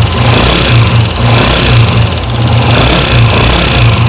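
A 2003 Honda CG125's single-cylinder four-stroke pushrod engine running with a loud, rhythmic clatter from the cylinder head, the sign of a pushrod whose end has broken off and dropped into the engine.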